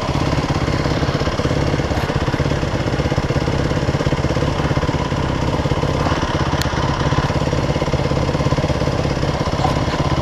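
Dirt bike engine idling steadily with a rapid, even pulse.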